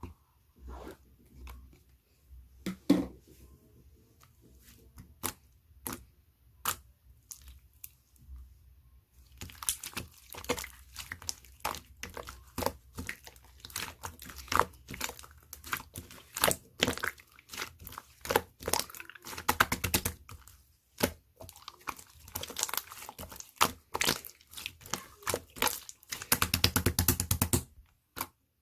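Clear slime being squished and pressed by hand, giving sharp wet clicks and pops. These are sparse at first, dense and irregular from about a third of the way in, with a fast run of clicks near the end.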